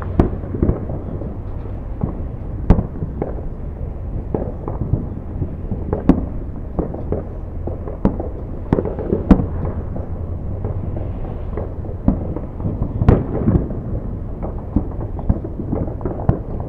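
Aerial firework shells bursting one after another: irregular sharp bangs and smaller pops over a continuous low rumble, with the biggest bangs about three seconds in and again around thirteen seconds.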